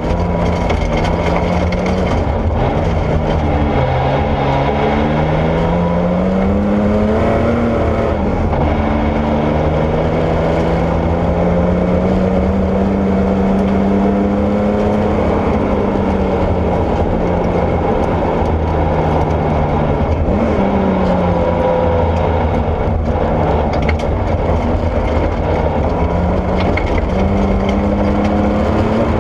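Porsche 964 rally car's air-cooled flat-six engine running hard, its pitch repeatedly climbing and then dropping as it accelerates and shifts. Under it runs a steady loud rush of noise.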